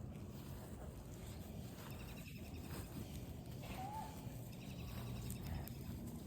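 Quiet outdoor ambience with a steady low hum, over which faint high chirping trills come twice and a short whistled call rises and falls about four seconds in.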